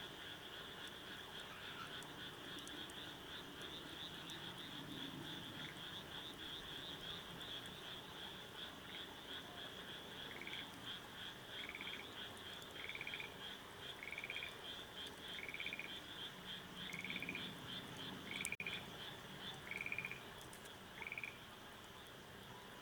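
Frogs calling: a steady pulsing high trill throughout, and from about ten seconds in one call repeated nine times, about once every second and a quarter. A single sharp click near the end.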